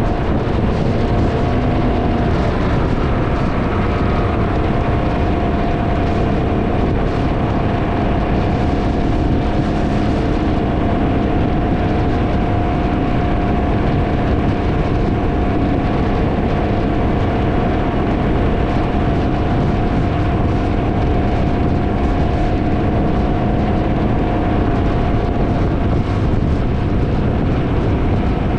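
Can-Am Ryker three-wheeled motorcycle cruising at a steady speed, its engine note holding a steady pitch under heavy wind buffeting on the microphone.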